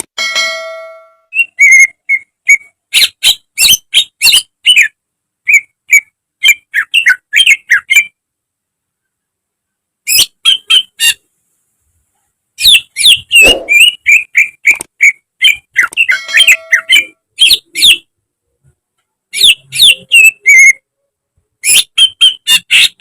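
Cucak ijo (greater green leafbird) singing: loud bursts of sharp whistles and rapid chattering phrases, each lasting a second or two. The bursts are separated by stretches of dead silence.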